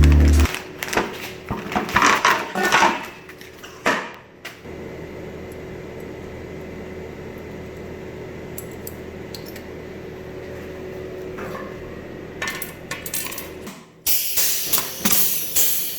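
Metal parts and tools clinking and rattling, then a steady machine hum with a faint held tone for several seconds, then more clinking and knocking near the end.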